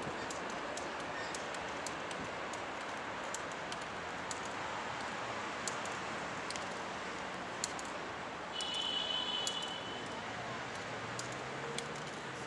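Railway station ambience: a steady background rumble and hiss with scattered faint clicks, and a brief high-pitched tone about nine seconds in.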